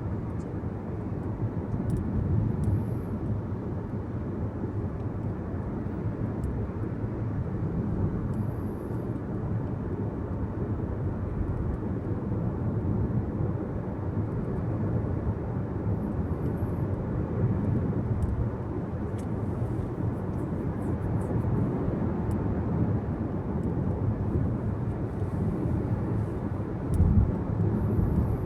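Steady road and engine noise of a car driving, heard from inside the cabin, a low even rumble with no pauses. A brief louder bump comes near the end.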